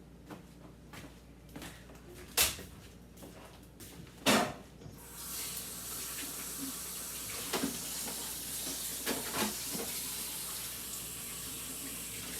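Two sharp knocks, then a kitchen faucet runs steadily into the sink from about five seconds in, with a few light clatters under the running water.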